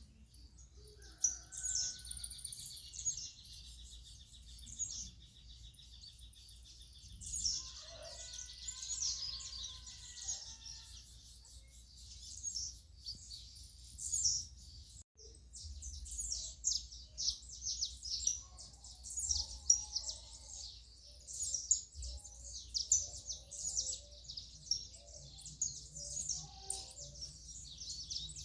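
Many small birds chirping and singing at once, short calls and trills overlapping without a break, over a low steady rumble.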